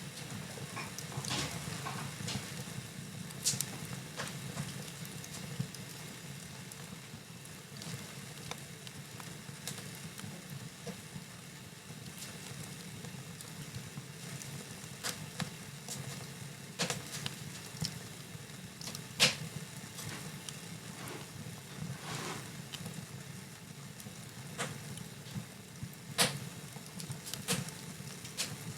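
Fireplace fire crackling: a steady low rumble of burning with scattered sharp pops, the loudest about 19 seconds in and another near 26 seconds.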